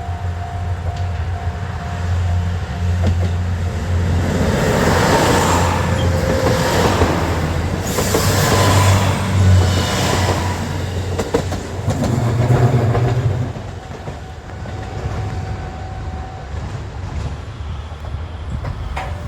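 JR Kyushu 'Nanohana' diesel railcar passing close by over a level crossing: a low engine rumble under the noise of the train going by, with wheels clicking over the rail joints. It is loudest from about four to thirteen seconds in, then drops back to the rumble.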